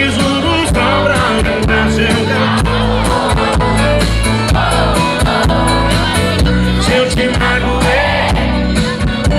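Live sertanejo band playing loud amplified music with a steady drum beat and bass, an instrumental passage between sung verses.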